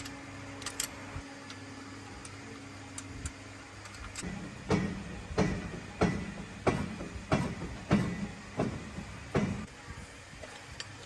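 A run of about eight sharp, evenly spaced knocks, roughly one and a half a second, starting about four seconds in over a low steady hum.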